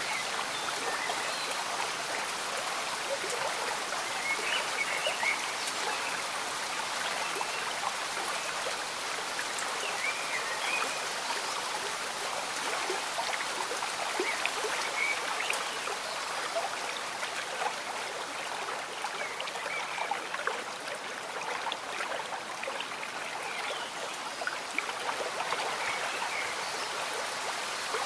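A slow-moving stream bubbling and trickling steadily, with rain falling, and small gurgles heard now and then throughout.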